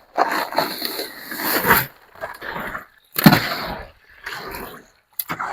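Concrete hoe scraping and chopping through wet concrete mix in a wheelbarrow, in repeated separate strokes with a heavier thud about three seconds in.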